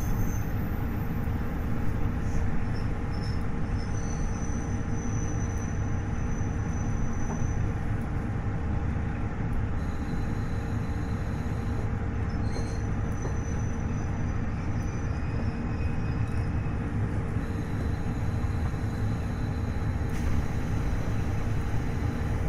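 KiHa 40 diesel railcar with its DMF15HSA diesel engine running, a steady low rumble with a constant hum over it.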